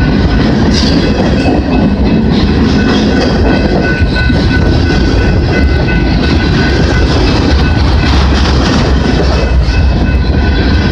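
Freight train cars, boxcars and centerbeam flatcars, rolling past close by: a steady, loud rumble with the clatter of steel wheels over the rails.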